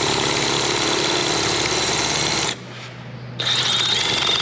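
Power drill running, its bit boring into hard steel, with a steady high whine. The noise drops away suddenly for about a second, a little past halfway, then comes back.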